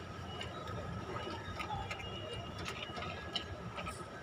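Chewing and mouth smacks close to the microphone, heard as small scattered clicks over a low, steady background hum.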